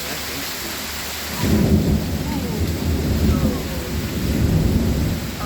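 Heavy rain falling steadily; about a second and a half in, a loud, low rumble of thunder breaks in and rolls on for about four seconds.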